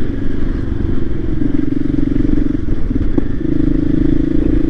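Voge 300 Rally motorcycle's single-cylinder engine running while riding, with a low rumble underneath. The engine note eases briefly a little past halfway, with one sharp click, then holds steady again.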